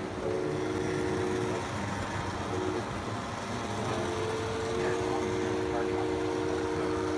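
Model train's horn sounding a steady chord of several tones: one blast of about a second, a short toot, then a long held blast, over the chatter of people around the layout.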